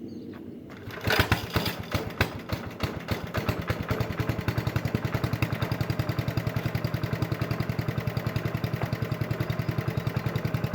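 Haytor Condor's engine cold-starting: it catches about a second in, runs unevenly for a couple of seconds, then settles into a steady, even idle.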